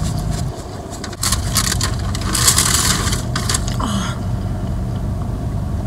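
Steady low hum of a car engine idling, heard from inside the car. About a second in, a couple of seconds of crinkling, rustling noise come in short bursts.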